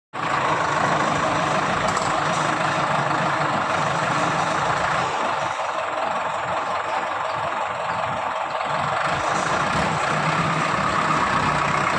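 Heavy diesel engine running steadily at a constant speed, a dense, unbroken mechanical din.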